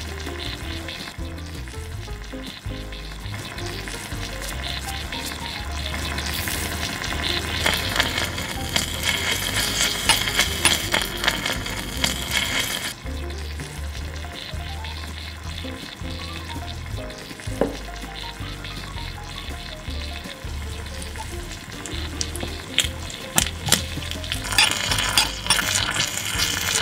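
Meat and vegetables sizzling and frying in a miniature steel wok, with a utensil stirring and clicking against the metal. The sizzling is louder from about a quarter of the way in to about halfway, then louder again near the end.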